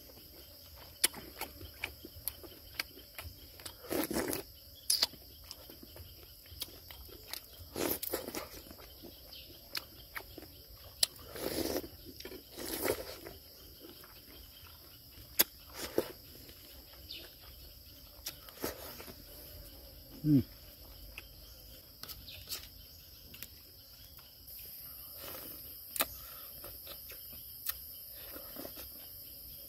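Close-up eating sounds: wet chewing, lip smacks and mouth clicks, with a few louder slurping noises and a short low hum about two-thirds through. Insects, crickets among them, drone steadily behind.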